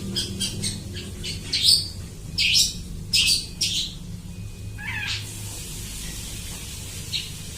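Long-tailed shrike singing a string of short, sharp, high calls, mimicking other birds' calls, with a drawn-out falling call about five seconds in.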